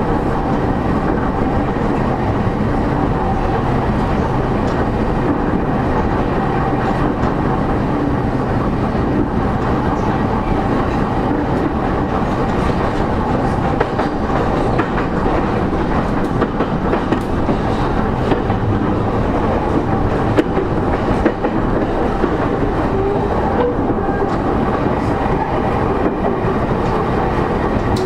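Running noise inside the motor car of a JR East E231-0 series commuter train at line speed: traction motor and wheel-on-rail noise with a steady whining tone and scattered rail-joint clicks.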